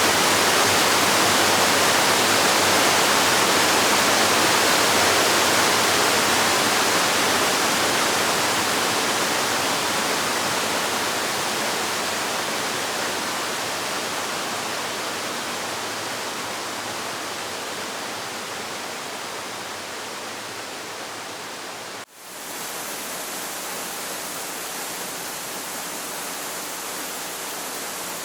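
Waterfall rushing as a steady, even roar that slowly gets quieter. About 22 seconds in it cuts out for an instant, then carries on quieter and duller.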